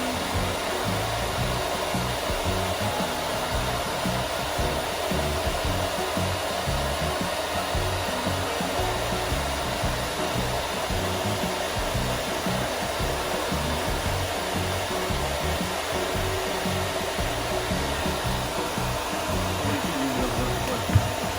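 Dryer blowing steadily while drying a dog's wet coat, with one brief knock near the end.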